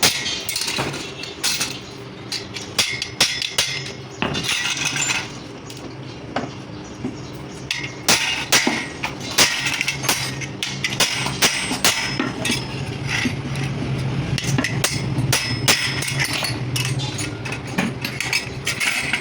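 Hammer blows and metallic clinks on the parts of a 13-inch clutch plate being worked on. The knocks come irregularly, sometimes several a second, over a steady low hum.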